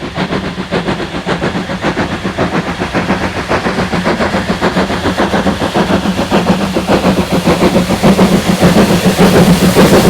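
Steam locomotive approaching under steam, its exhaust chuffing in a quick, even rhythm and growing steadily louder.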